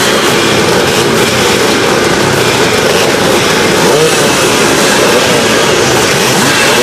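Classic motocross motorcycles racing, several engines revving up and down so that their pitches rise and fall over one another.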